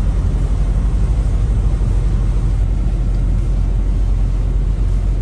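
Semi-truck on the move: a steady, loud, low engine and road rumble.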